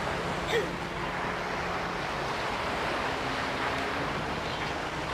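Sea surf washing onto a sandy beach, a steady rushing noise, with a faint low hum underneath.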